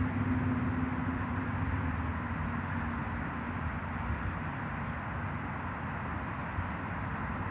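A steady low hum over a constant background rumble, the hum fading after about two seconds.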